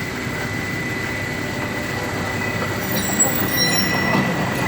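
Heavy demolition machinery working: a steady mechanical rumble with a constant high whine, and short high-pitched metal squeals about three seconds in.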